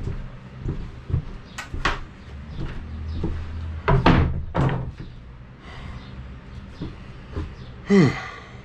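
Several sharp knocks and bangs, the loudest two about four seconds in, like doors or cabinets being handled.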